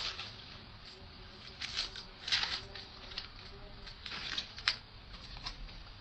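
Irregular rustling and scraping handling noises, a dozen or so short scrapes with the loudest about two and four and a half seconds in.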